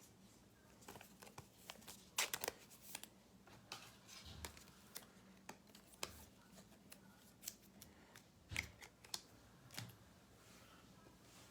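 Trading cards and their plastic packaging being handled: scattered light clicks and rustles, with a few sharper snaps, some about two seconds in and one more at about eight and a half seconds.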